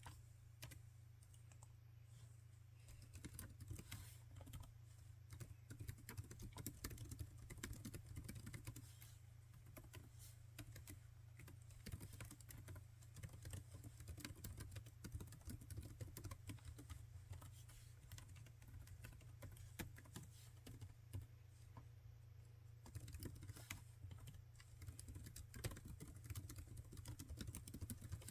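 Typing on a laptop keyboard: a fast, uneven run of light key clicks, in bursts, over a faint steady low hum.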